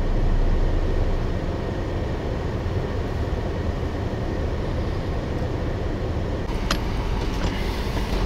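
Car engine running as a car stuck in deep snow tries to drive free, a steady low rumble. A short, sharp click comes about seven seconds in.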